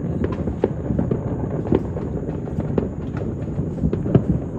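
Many distant fireworks and firecrackers going off at once across a town: a continuous rumble of overlapping bangs, with sharper pops standing out several times a second.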